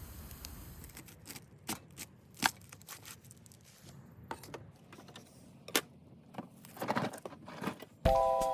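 Irregular light clicks and taps, as of small objects being handled, after a steady hiss in the first second. Music starts near the end.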